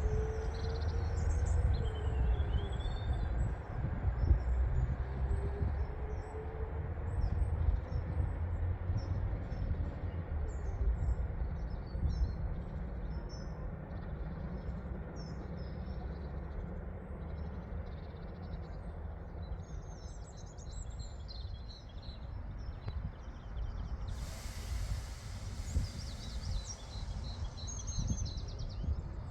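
Northern Class 331 electric multiple unit running through, its low rumble strongest over the first dozen seconds and then fading away. Over the same first ten seconds its motors whine in gliding tones. Small birds chirp throughout, and a hiss rises about 24 seconds in.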